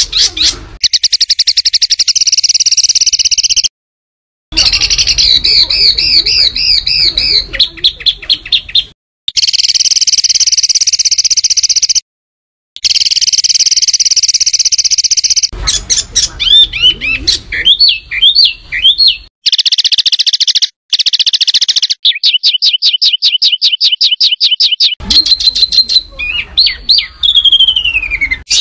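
Songbird tutor recording ('masteran'): harsh, rapid bursts of repeated high chirps and trills, the fast 'tembakan' notes used to train competition songbirds. The bursts are broken by a few abrupt short silences, and a falling note comes near the end.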